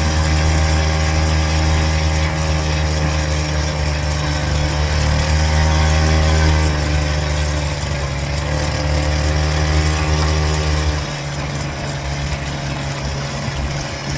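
Small gasoline engine of a gas scooter running while riding, its pitch rising and falling with the throttle, then dropping to a lower, quieter note about eleven seconds in.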